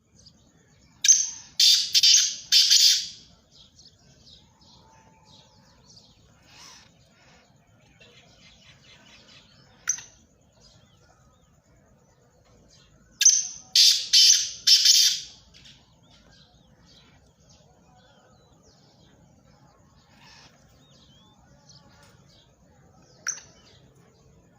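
Black francolins calling: two loud bouts of four harsh notes each, one about a second in and one about thirteen seconds in. A single sharp note comes between them and another near the end.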